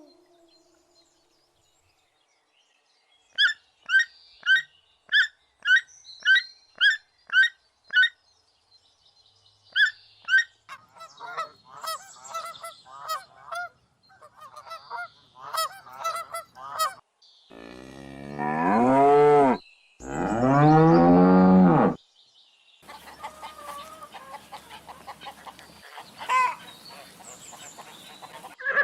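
A run of animal calls: about nine evenly spaced honks from waterfowl, then quicker chattering calls, then a cow mooing twice in long, loud calls that bend in pitch. A noisier stretch with scattered faint calls follows.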